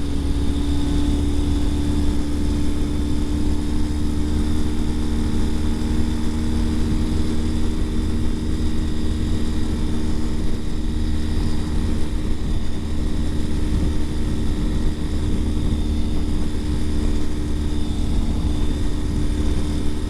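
Ural Gear Up sidecar motorcycle's air-cooled boxer twin running at a steady engine speed while riding, under a heavy low wind rumble on the microphone.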